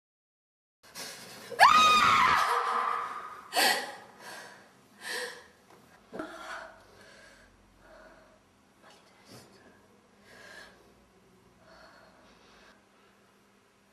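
A woman gasps loudly with a rising, voiced pitch, as if waking with a start, then breathes heavily in a run of ragged breaths roughly a second apart that grow fainter.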